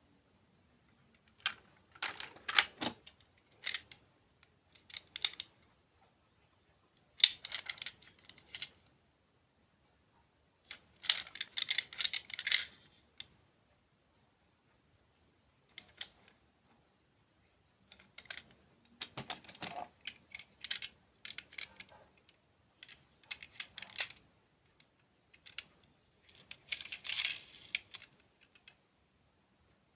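Close-miked eating sounds: crisp crunching and chewing of dessert food, coming in clusters of dense clicks a second or two long, separated by short silent pauses.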